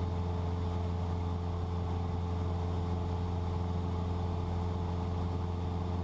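Cessna 172's piston engine and propeller droning steadily in level cruise, heard inside the cabin, with a strong low hum and steady tones that do not change.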